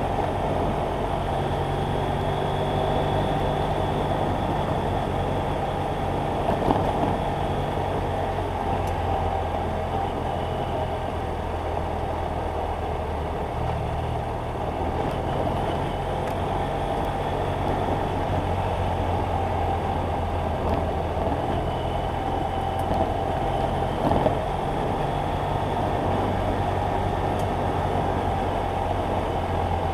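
BMW F800GS Adventure's parallel-twin engine running steadily while riding, its pitch stepping to a new level about halfway through, under a haze of wind and road noise. Two brief knocks, one about a quarter of the way in and one near the end.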